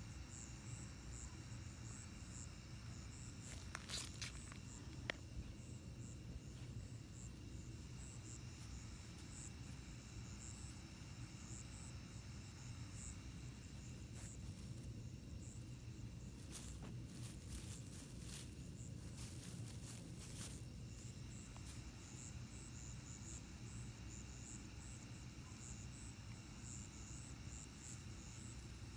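Night insects, crickets among them, chirping steadily in a high pulsing chorus over a low steady rumble. A few faint sharp clicks come around four seconds in and again in a cluster between about 16 and 21 seconds.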